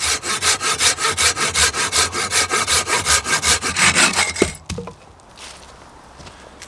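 A hand saw cutting firewood in fast, even back-and-forth strokes, about four or five a second. The sawing stops about four and a half seconds in with a single knock.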